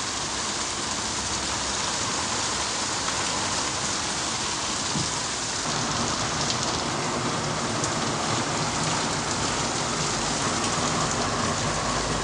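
Torrential downpour: heavy rain pouring steadily onto pavement and foliage, a dense, even hiss.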